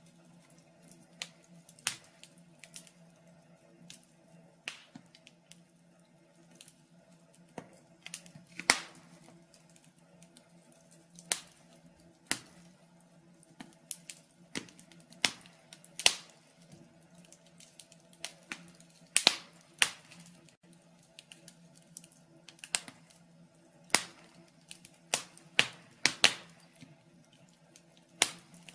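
Wood fire in a fireplace crackling: irregular sharp pops and snaps, several a second, with a few louder cracks, over a faint steady hum.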